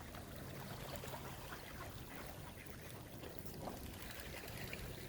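Faint lakeside ambience: gentle water sounds under a low steady hum, with a few short faint high sounds that may be distant bird calls.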